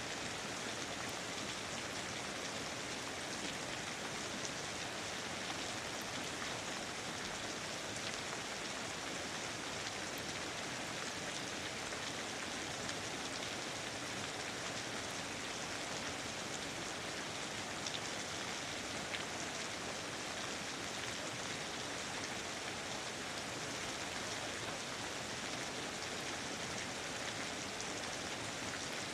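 Steady, even rain falling on foliage and surfaces, with a dense patter of small drops.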